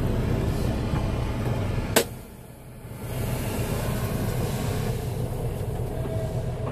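Steady low rumble of a semi truck's engine running in a truck wash, with a hiss over it. A sharp click comes about two seconds in, after which the sound drops away for about a second before the rumble returns.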